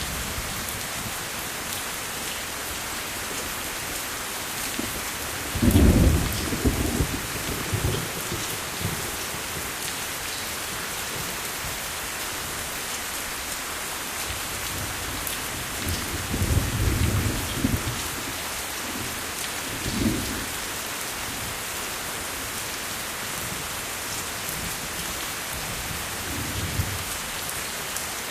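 Steady rain falling, with thunder rolling over it: a loud rumble about six seconds in, another longer roll a little past the middle, a short one just after, and a faint one near the end.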